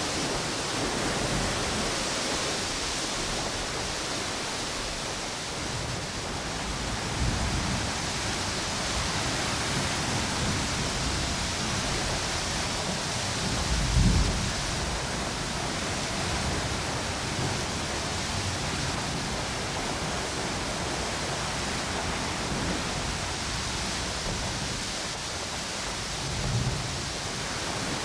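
Steady rush of ocean surf and wind on a tropical beach, with a few short low rumbles of gusts or breaking waves, the loudest about halfway through.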